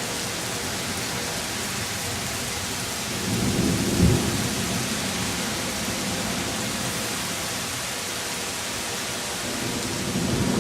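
Heavy thunderstorm rain pouring steadily. A rumble of thunder swells about three seconds in and peaks a second later, and another rumble builds near the end.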